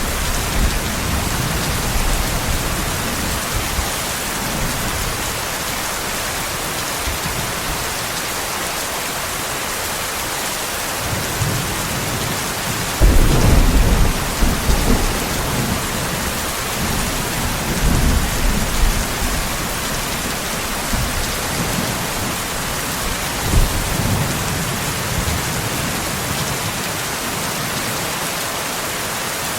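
Steady heavy rainfall hissing, with rolls of thunder rumbling low beneath it; the loudest clap and roll comes about halfway through, with smaller rumbles a few seconds later and once more near the end.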